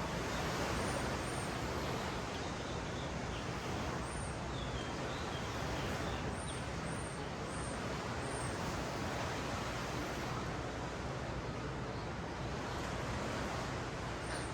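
Ocean surf washing on a sandy beach as a steady rush, with short high bird chirps now and then, several in quick succession in the middle.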